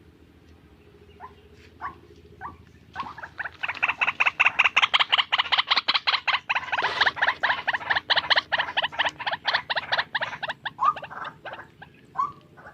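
White-breasted waterhen calling: a few separate short notes, then from about three seconds in a loud, fast run of repeated harsh notes, about six a second, lasting some eight seconds before breaking up into scattered notes near the end.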